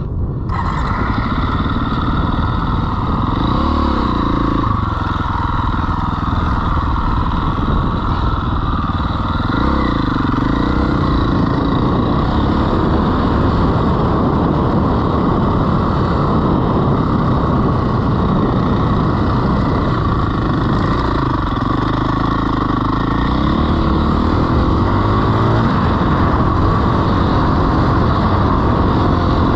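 Dirt bike engine running steadily, its pitch drifting up and down a little, over a dense low rumble.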